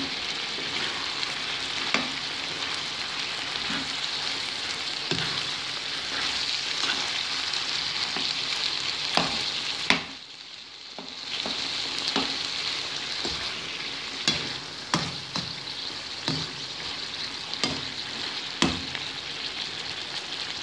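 Lamb liver adobo sizzling in a wok over a gas flame. A metal spoon clinks and scrapes against the pan as it is stirred, more often in the second half, and the sizzle drops away briefly about halfway through.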